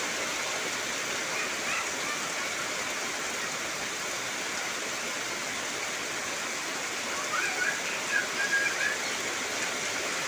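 Heavy rain falling steadily, a constant even hiss of rain on trees and ground. A few short high chirps cut through it, briefly about a second and a half in and again several times near the end.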